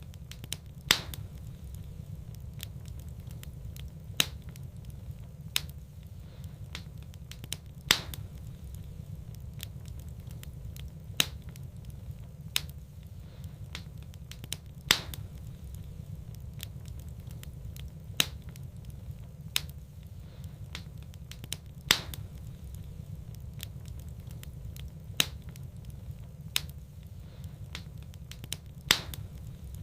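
Wood fire burning in a fireplace: a steady low rumble with light crackling and sharp pops every few seconds.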